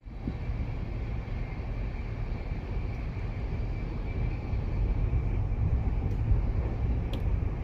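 Cabin noise of a passenger train coach running at about 117 km/h: a steady low rumble of wheels on rails, with a faint steady whine and two light clicks near the end.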